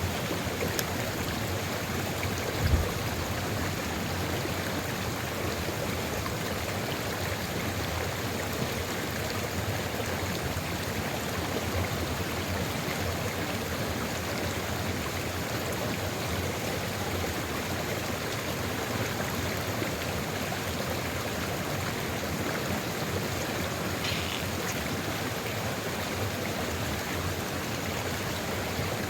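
Sulfur river below Ijen Crater flowing steadily over rocks, an even rushing and gurgling of water. A brief low thump about three seconds in.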